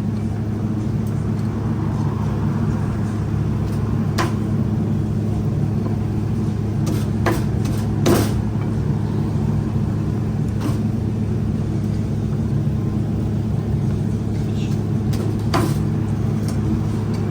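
A car driving: a steady low engine and road drone, with a few light clicks now and then.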